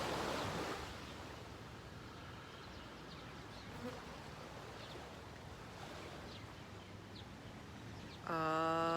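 A woman draws a long breath in, then a quiet stretch with faint insect and bird chirps; about eight seconds in she starts a continuous 'ah' chant held on one steady note.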